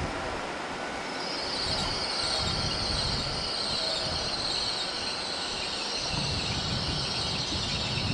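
Great Western Railway Class 800 train running slowly past along the platform, a low rumble from the passing carriages with a high-pitched hiss building from about a second in.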